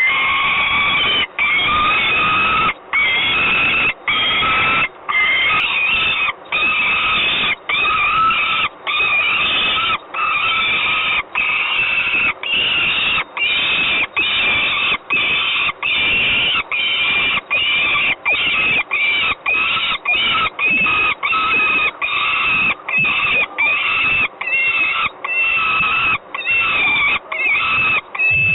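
Peregrine falcon giving a long run of harsh, wailing screeches, one after another with only short breaks, a little over one a second. This is loud calling while trying to get at prey in the nest.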